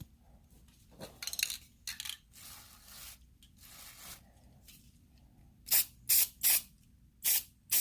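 An aerosol spray paint can giving short touch-up sprays. A few softer hisses come in the first three seconds, then five quick, loud spurts near the end.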